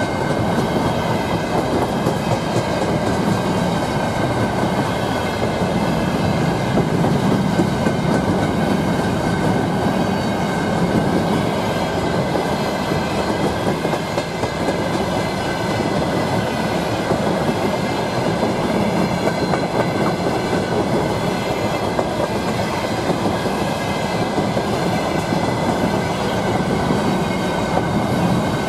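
Freight train of covered hopper wagons rolling past close by: a steady noise of steel wheels running on the rails, with a few thin high tones ringing over it.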